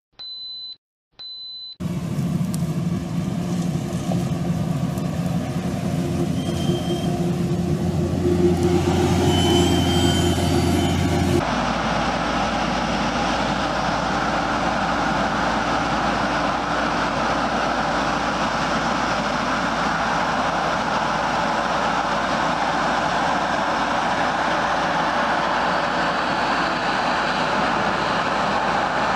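Two short high beeps, then heavy farm machinery running steadily. About eleven seconds in, the sound switches abruptly to a different machine's steady rumble.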